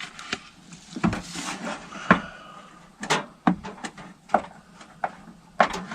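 A string of irregular knocks and clunks, about ten in all, as camp cooking gear is handled and set down, with a quick pair of knocks near the end.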